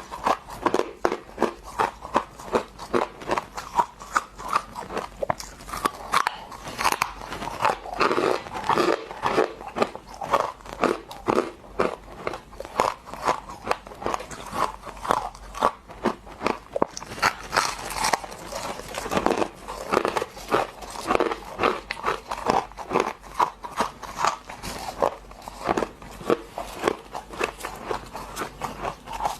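Close-up crunching and chewing of frozen frost in the mouth, with many hard crunches a second. The frost is humidifier or freezer frost ice.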